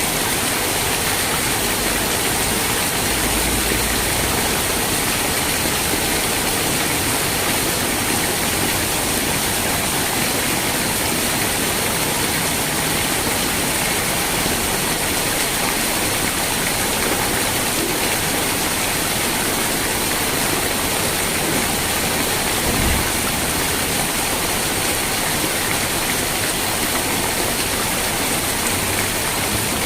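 Steady rain falling, a constant even hiss with no let-up, with one brief low thump a little past two-thirds of the way through.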